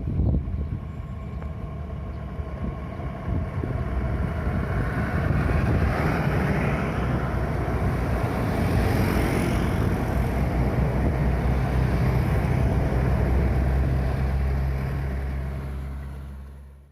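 Heavy truck or bus engine running with a steady low drone and road noise, growing louder about five seconds in as the vehicle draws near, then fading out at the end.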